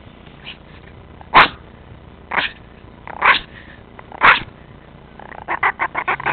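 Chihuahua making short, sharp noisy huffs about once a second, four times, then a fast pulsing growl that starts near the end and grows louder, like a small engine revving.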